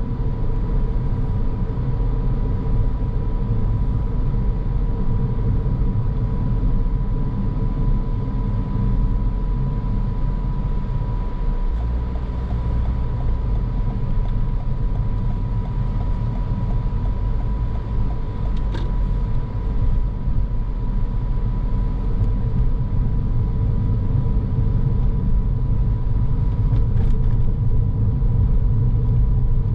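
Car driving steadily: a low, even rumble of tyres and engine, with a faint steady high tone running through it.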